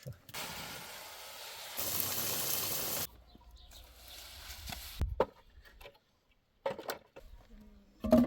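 Water running in a steady hissing stream for about three seconds, turning louder partway through and then cut off abruptly, followed by a few short knocks.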